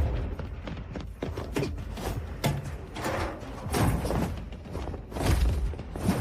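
A series of irregular knocks and thumps over low background music.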